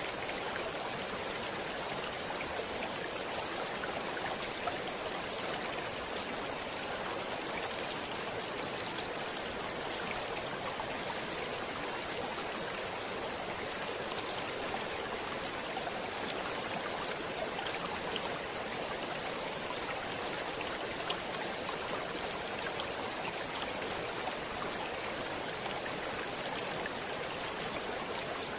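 Stream water flowing and splashing steadily, an even rushing with small bright splashes throughout.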